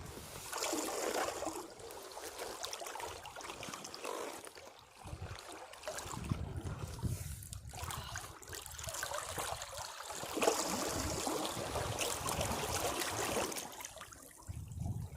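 Sea waves washing against rocks, the water noise swelling and ebbing in surges, loudest about ten seconds in.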